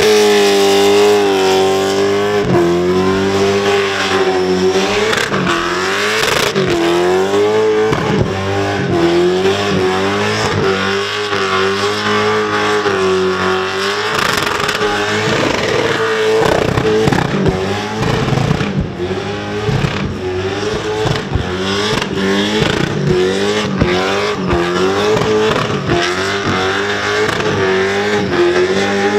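Supercharged Holden Commodore's engine held at high revs through a burnout, the revs wavering up and down every second or two over the hiss of spinning tyres.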